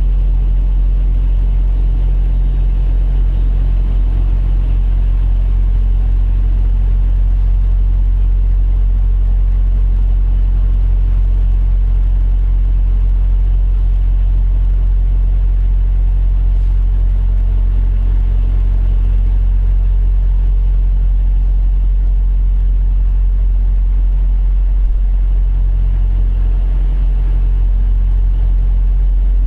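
Heavy truck's diesel engine idling: a steady low drone that stays even throughout.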